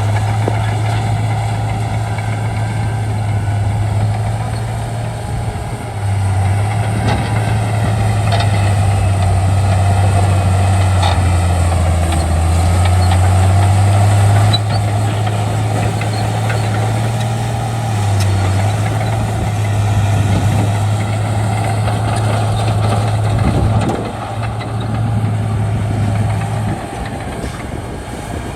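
Bulldozer's diesel engine running steadily under load, its low note dropping and recovering several times as the work load changes.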